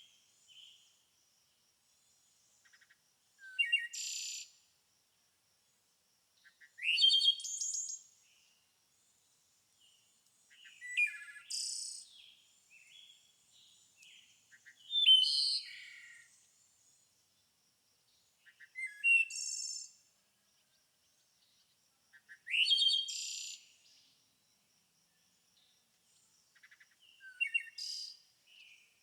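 A songbird singing short, high-pitched phrases of rising and falling notes, seven in all, one every three to five seconds with quiet gaps between.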